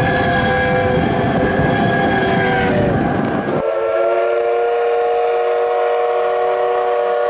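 C12 66 steam locomotive's whistle blowing one long blast of several tones together, over a loud rush of steam and running noise. The rush cuts off about halfway through and the whistle carries on alone until near the end.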